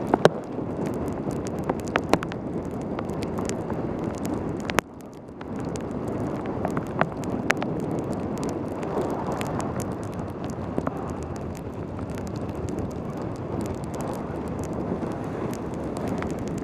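Wind rushing over a helmet-camera microphone and wet tyre noise from a mountain bike descending fast in pouring rain, with frequent sharp ticks throughout. The rush dips briefly about five seconds in.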